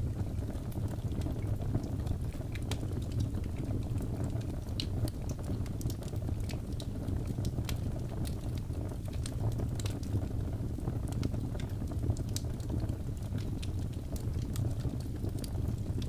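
Wood fire burning: a steady low rumble of flames with frequent irregular sharp crackles and pops of burning wood.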